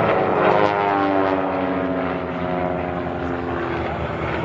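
Propeller aircraft flying low past the crowd, its engine and propeller note dropping steadily in pitch as it goes by.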